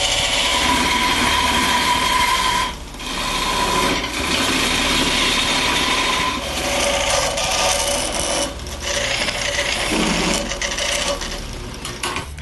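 Turning tool cutting into a spinning pine block on a wood lathe. A continuous scraping, shaving hiss over the lathe motor's steady hum, breaking off briefly a few times as the tool leaves the wood.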